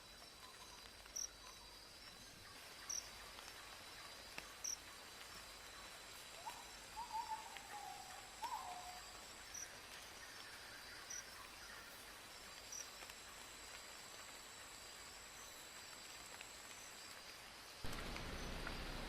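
Forest insects, crickets among them, trilling steadily at a high pitch. A short, wavering animal call comes about halfway through, and a louder even hiss sets in suddenly near the end.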